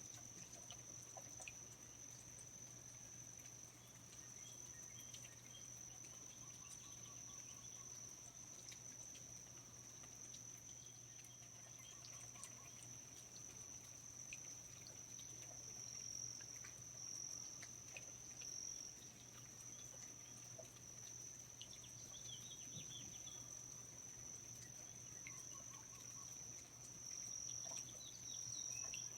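Faint rainforest ambience: a steady high-pitched insect chorus with a few scattered faint chirps and light drips.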